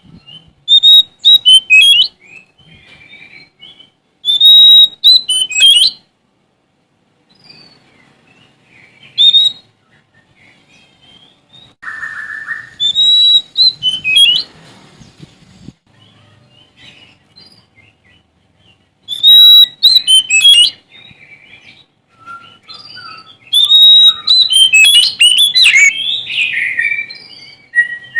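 Oriental magpie-robin (Sumatran kacer) singing loudly in short bouts of varied whistled phrases, separated by pauses of a few seconds, with the longest, most elaborate run near the end. It is the bird's vigorous 'gacor' song.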